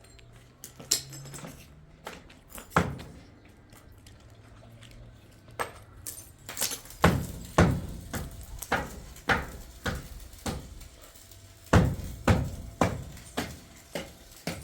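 A few scattered sharp knocks, then from about halfway in a steady series of knocks at about two a second, with a short pause before they resume.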